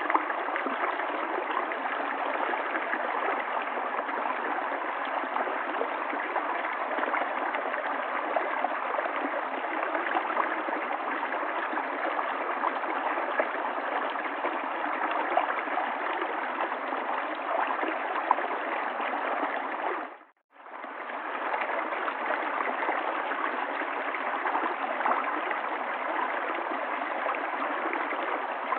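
River water flowing in a steady babble and gurgle. It fades out to silence for about half a second about two-thirds of the way through, then comes straight back.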